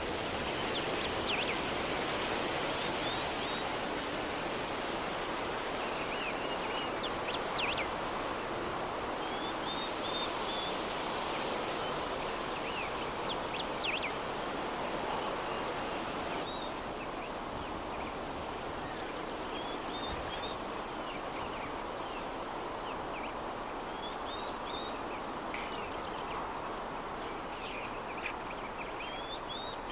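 Steady soft breeze, with small birds chirping briefly every few seconds.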